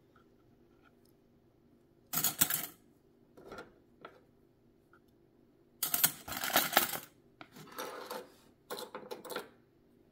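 Small metal sewing-machine attachments clinking and rattling against each other as they are handled, in several short clusters of light clinks with pauses between.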